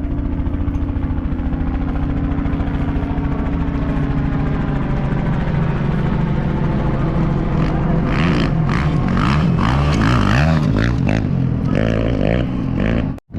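An engine runs steadily. After about six seconds the sound turns busier and shifts in pitch, with rougher noise, and it cuts off abruptly just before the end.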